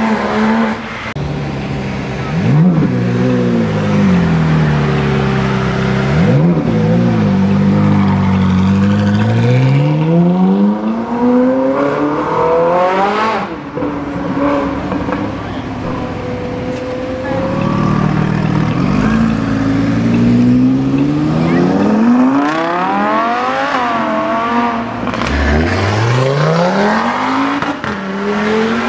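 High-performance car engines accelerating hard past one after another, several times over. Each engine note climbs steeply with revs, then drops away as the car goes by.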